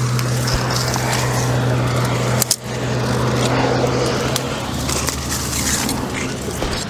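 Battery-powered chainsaw running steadily as it cuts through brush. The motor's hum cuts out briefly about two and a half seconds in, then starts again.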